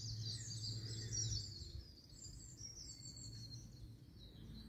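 Small birds singing from the trees, a dense twittering of high chirps that thins out after about two seconds, over a faint, steady low hum.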